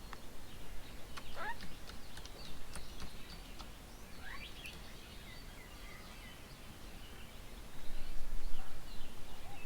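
Wild birds calling around a garden bird table: scattered short chirps and a few quick rising whistles. A low rumble comes up near the end.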